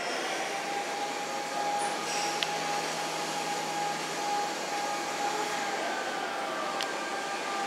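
Greater Anglia Mk3 passenger train, led by its driving van trailer, rolling slowly into the platform with a steady rumble and a thin, steady high-pitched squeal as it brakes.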